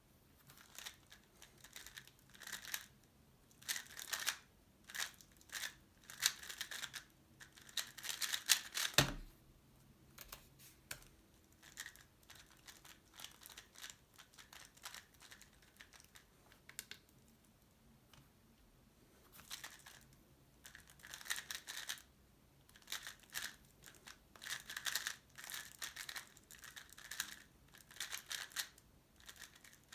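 Tornado V3 Pioneer 3x3 speedcube being turned fast: rapid clicking and rattling of its layers in runs of several seconds. A single loud thump comes about nine seconds in.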